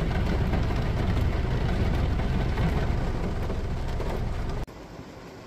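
Heavy rain falling on a car's windshield and roof, heard from inside the cabin over a steady low rumble from the car. Near the end it cuts off abruptly to a much quieter, softer rain hiss.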